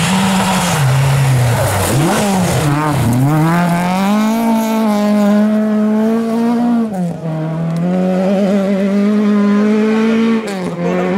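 Historic rally car engine running hard at high revs. The pitch dips and rises through the first few seconds, then holds high and drops suddenly twice, about seven seconds in and again near the end, as it shifts gear.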